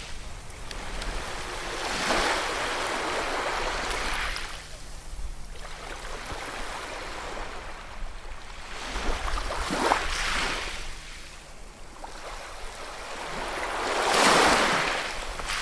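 Ocean waves breaking and washing onto a shore, three surges of surf with the loudest near the end, between them a softer steady rush of water.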